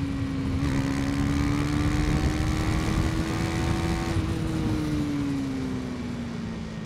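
KTM Duke 250's single-cylinder engine running on the move, its pitch rising slightly and then dropping from about four seconds in as the throttle is eased, over steady wind rush.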